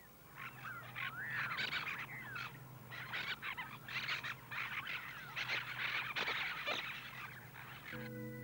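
A chorus of tropical birds giving many short, harsh, overlapping squawks and chattering calls, some sliding up and down in pitch. A held music chord comes in just before the end.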